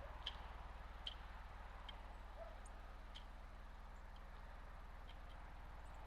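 Faint, sharp ticks from birds at a feeder, about a dozen scattered irregularly, over a low steady hum.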